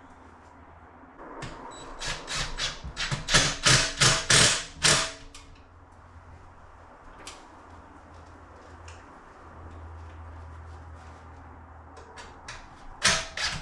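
Hammer driving nails, a quick run of about ten blows that get louder and ring slightly, then another run of blows near the end.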